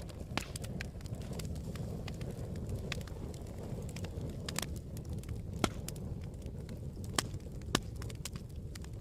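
Campfire burning: a steady low rumble of flames with irregular sharp crackles and pops of the burning wood, a few of them louder.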